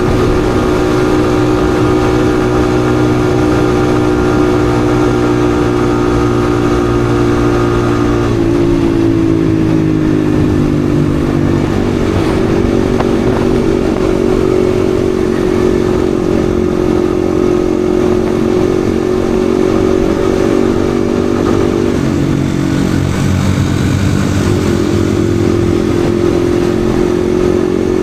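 Yamaha XSR155's single-cylinder engine running under way at steady revs. Its pitch drops a step about eight seconds in, dips again a little past twenty seconds, then climbs back up.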